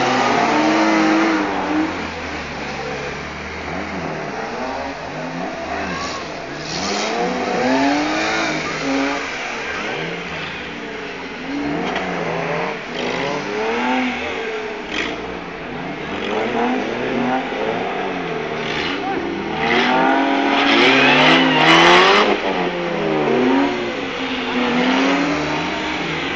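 Several old hatchback cars' engines revving up and down over and over, overlapping rising and falling glides, as the cars spin their wheels in deep mud. The revving is loudest about 21 seconds in.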